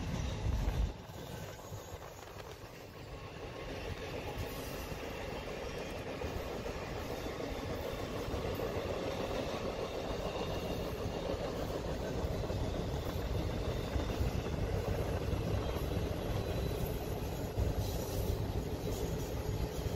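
Freight train rolling by on the rails, a steady rumble of wheels and cars with no horn. The sound drops suddenly about a second in, then grows louder over the next several seconds and holds.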